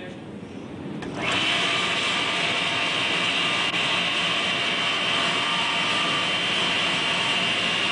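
Motor-generator set, a 3/4 horsepower induction motor coupled to a 2900-watt generator, switched on from mains power: about a second in it spins up quickly, then runs steadily with an even high whine.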